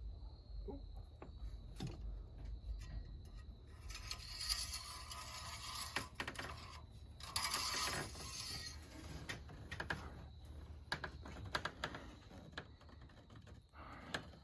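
Engine oil dipstick being checked on a 5.7 HEMI: light clicks and taps as it is pulled from and slid back into its tube, with two rustling passes of a rag wiping it, the first about four seconds in and the second about seven seconds in.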